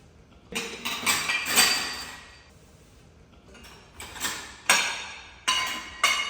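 Dishes and pots clattering as they are tidied away: a run of knocks with ringing in the first two seconds, then four more separate clinks later on.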